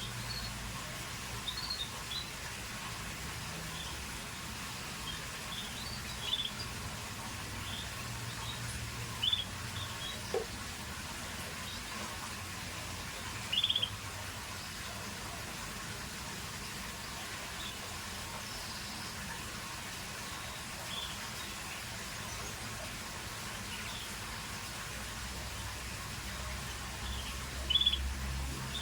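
Scotch Fancy canary giving short, high chirps one at a time, spaced a second to several seconds apart, over a faint steady hum.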